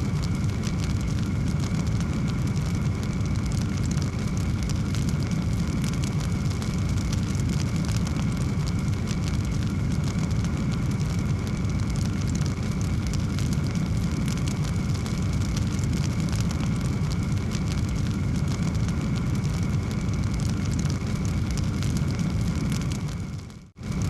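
Wood fire burning in a fireplace: a steady low rumble of flames with constant fine crackling. It cuts out for a moment just before the end, then resumes.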